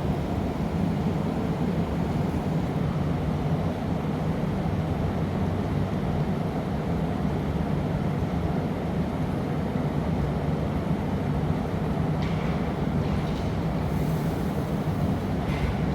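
Steady low roar of a glassblowing workshop's furnaces and burners running, with a few faint taps near the end.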